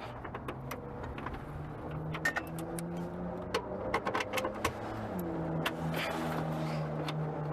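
Many short clicks and clinks of hand tools and metal car parts being handled, over a steady low hum that shifts slightly in pitch about five seconds in.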